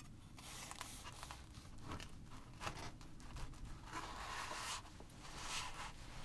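Faint, intermittent rustling and crinkling from food being handled as a breakfast burrito is put together, with two longer rustles about four and five and a half seconds in.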